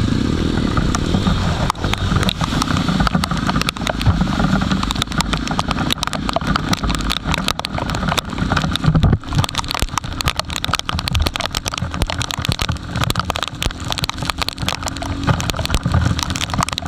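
Jawa motorcycle engine running, under a constant noisy rush with many short crackles on top.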